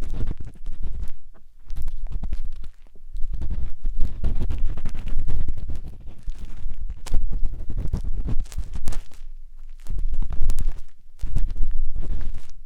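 Matchstick scraping and rubbing inside the silicone ear of a 3Dio binaural microphone, very close: scratchy crackling strokes with a heavy low rumble, each a second or more long, with short gaps between them.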